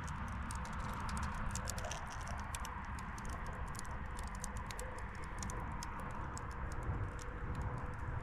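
Shattered car door window glass crackling: an irregular run of small sharp ticks and clicks, several a second.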